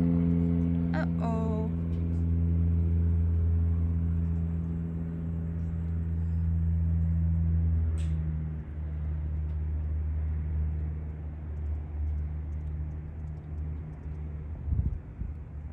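Steady low drone of aircraft engine noise from a nearby airport, with a held hum that eases slightly about halfway through. A short falling chirp sounds about a second in, and a brief thump comes near the end.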